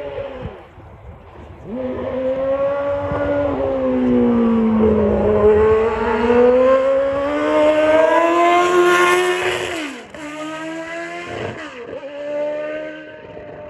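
A Formula One car's engine at high revs, its pitch rising and falling as it passes. The pitch drops sharply about ten seconds in, followed by two quick throttle blips as it downshifts.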